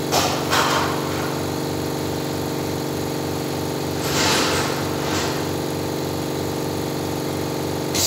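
Steady hum of a running engine or motor with a regular low pulsing. Short hissing bursts come about half a second in and again about four seconds in.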